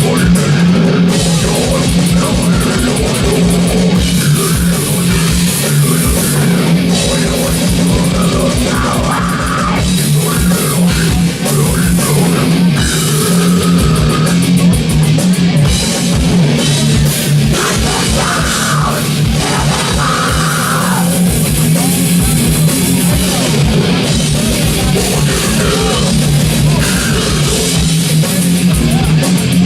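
Heavy metal band playing live: distorted electric guitars and bass over a drum kit, with rapid, even kick-drum strokes and constant cymbals.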